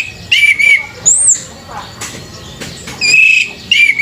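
Orange-headed thrush (anis merah) singing: a run of short, clear whistled notes, several arching up and down in pitch, with a high arching whistle about a second in and a held note about three seconds in.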